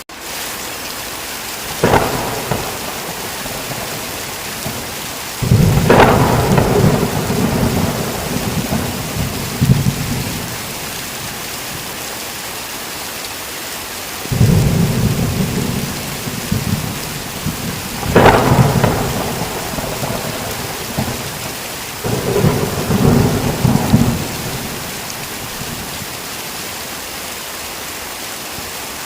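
Steady heavy rain with thunder breaking in several times: a sharp crack about two seconds in, then three rolls of low rumbling thunder lasting a few seconds each, two of them opening with or holding loud cracks.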